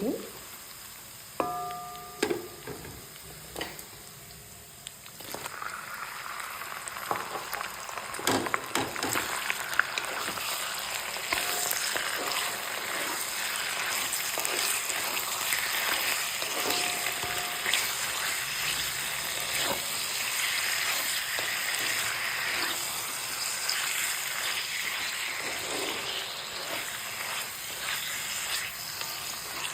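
Chicken pieces going into hot mustard oil with browned onions in a kadai: a few metal utensil clinks in the first seconds, then from about five seconds in a loud, steady sizzle of the meat frying, with small scrapes and clicks of stirring.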